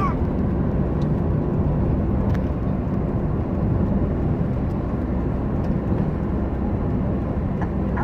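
Steady low rumble of a moving vehicle: engine and road noise heard from inside the cabin.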